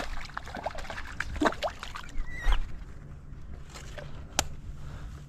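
A freshly landed smallmouth bass being handled at the water's edge: scattered knocks, slaps and splashes that are busiest in the first two seconds, then a few sharp clicks, over a steady low wind rumble.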